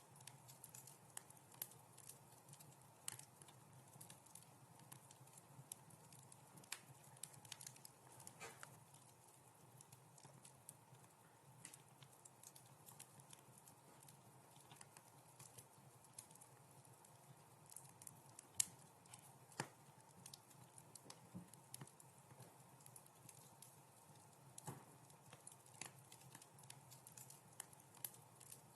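Faint crackling of a wood fire in a fireplace: scattered sharp pops and snaps at irregular intervals over a low steady hum, with the loudest pop about two-thirds of the way through.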